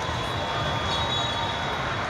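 Steady background noise of a crowded indoor sports hall, an even murmur with no distinct events.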